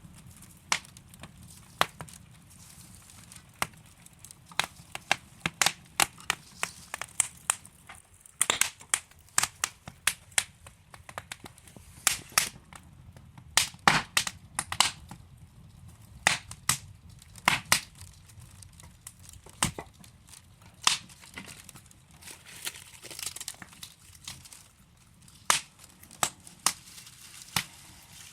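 Wood fire burning in a fireplace: burning logs crackling and popping, with sharp irregular pops over a low, steady hiss of flame.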